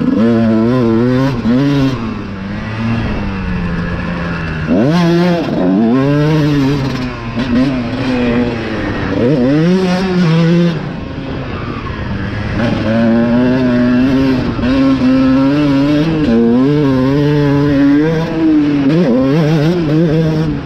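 Dirt bike engine being ridden hard, its revs repeatedly climbing and dropping back as the throttle is opened and closed, with steadier stretches in between.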